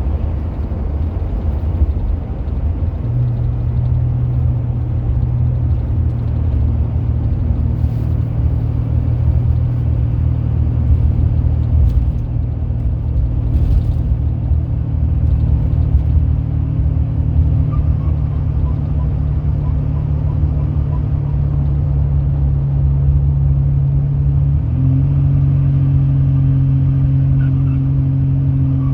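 Turbocharged car engine running steadily, a constant drone whose pitch steps up slightly about three seconds in and again a few seconds before the end.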